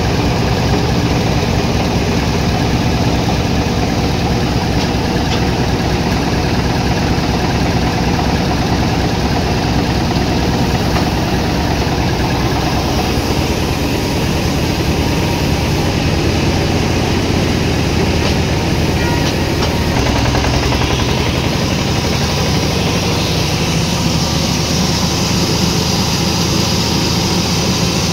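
Sawmill machinery running steadily, a loud, continuous engine-like drone with a low hum that shifts slightly about twenty seconds in.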